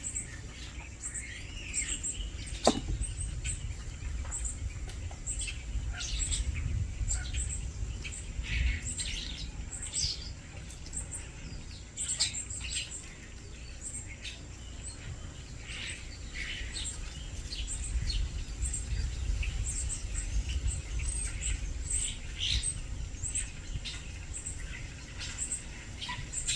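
Small songbird calling: many short, high chirps and tweets repeated throughout over a steady low rumble, with one sharp click about three seconds in.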